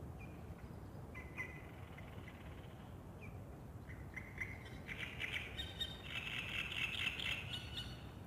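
Small birds singing: a few scattered short chirps, then a busier run of rapid high notes in the second half, over a steady low background rumble.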